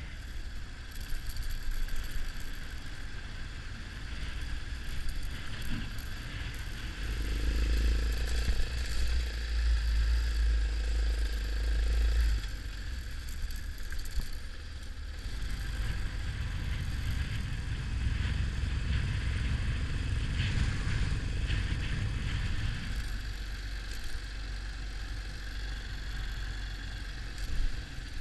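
Yamaha XT 600 motorcycle being ridden, its engine under the noise of wind buffeting the microphone; the wind rumble swells hard for several seconds about a third of the way in and again past the middle.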